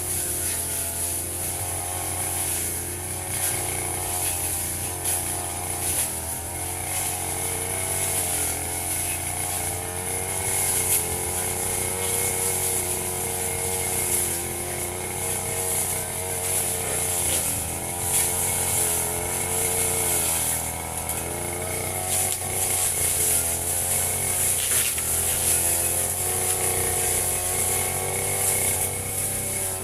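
Firman FGB 528 petrol brush cutter running continuously while cutting grass, its engine note rising and dipping slightly as the load changes.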